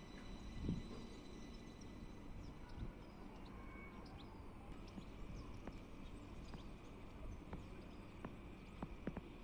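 Faint outdoor background rumble with scattered small clicks and short, faint bird chirps. A thin, high steady whine fades out over the first few seconds.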